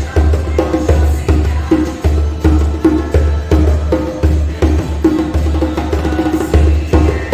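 Djembe played by hand in a steady, repeating rhythm, mixing deep bass strokes with ringing tone strokes.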